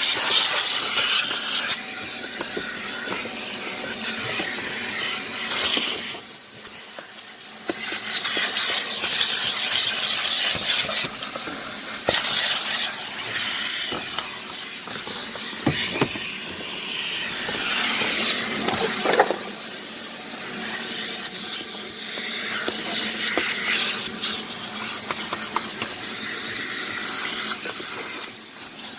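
A hissing jet of spray or air playing over a truck's body, swelling and fading in bursts, with a few faint knocks.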